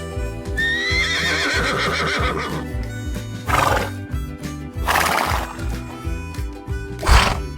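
A horse whinnies once for about two seconds, rising and then falling in pitch, followed by three short noisy bursts. Background music with a steady beat plays underneath.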